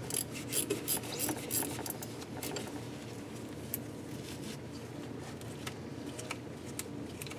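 Metal scraping and irregular small clicks as an old head bolt is wound through a bolt hole in an aluminium cylinder head to clean out its threads. The scraping is busier in the first couple of seconds, then thins to scattered ticks.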